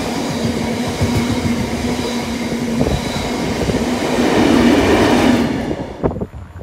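Freight train of bogie tank wagons passing close at speed, its wheels rumbling on the rails, with a steady hum that stops about three seconds in. The noise falls away sharply near the end.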